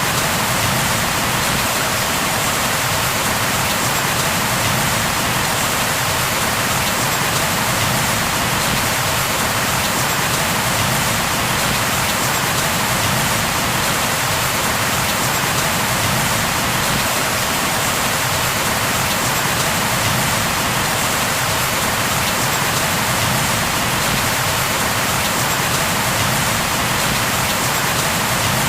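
Steady rain falling on a surface, an even, unbroken hiss of many drops.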